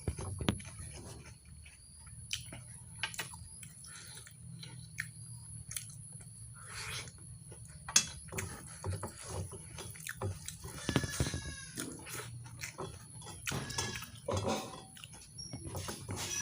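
Close-miked eating sounds of mutton curry and rice: wet chewing, lip smacks and scattered mouth clicks, irregular and unhurried.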